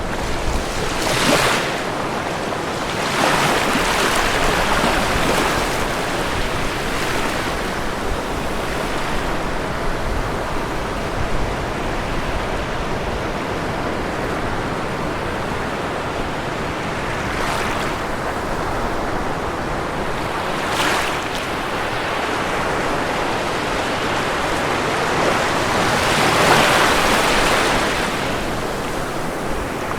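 Ocean waves breaking and washing onto a shore under a constant hiss of surf. The bigger breakers swell up about a second in, around four seconds in, around twenty-one seconds in and again near the end.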